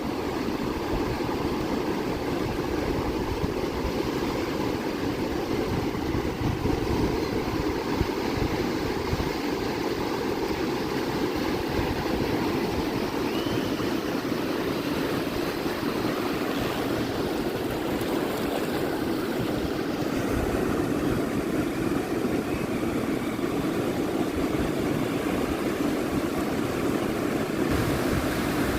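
Steady rushing of ocean surf along the shore, with wind buffeting the microphone.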